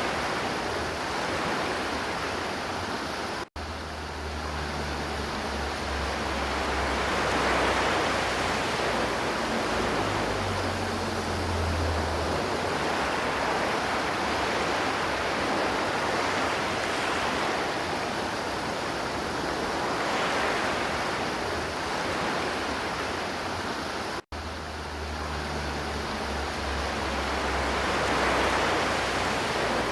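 River water rushing steadily, swelling and easing every few seconds. The sound cuts out for an instant twice, about three and a half seconds in and again about twenty-four seconds in.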